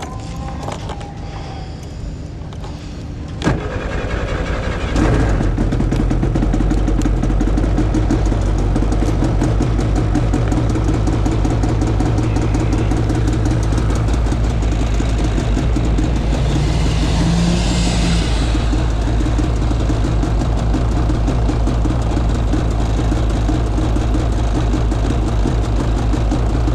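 A vehicle engine starts about five seconds in, after a sharp click, then runs steadily at idle.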